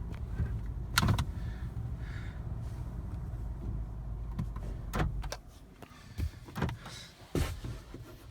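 Car interior: a steady low engine rumble that stops about five seconds in, as the engine is switched off, with several sharp clicks and knocks from the car's controls around it.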